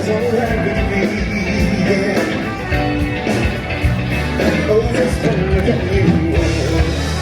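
Live band playing rock and roll, with a singer over guitar and a steady bass beat.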